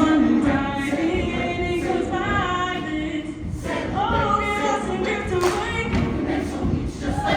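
Show choir of mixed voices singing sustained chords in harmony, with band accompaniment.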